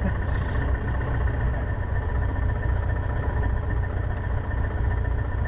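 Cessna 150's Continental O-200 four-cylinder engine idling steadily on the ground, heard from inside the cockpit as a constant low rumble.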